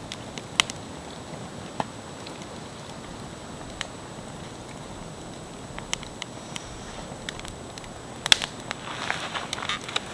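Wood campfire crackling: a steady hiss with scattered sharp pops, a quick cluster of louder pops about eight seconds in, then some rustling near the end.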